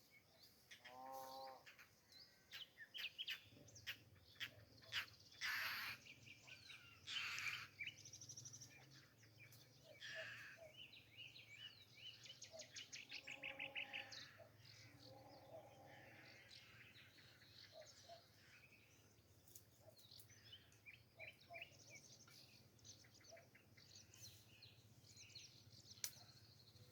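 Small birds chirping and trilling, faint: many short calls and rapid trills, with a steady low hum underneath from about three seconds in.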